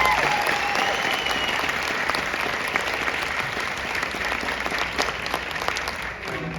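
Audience applauding, a dense steady clapping, while a held musical note fades out in the first second or so.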